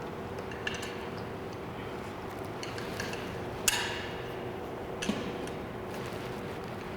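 Metal parts of an M500 series shotgun clicking and clinking as it is reassembled: a few sharp separate clicks, the loudest a little over halfway through, over a faint steady hum.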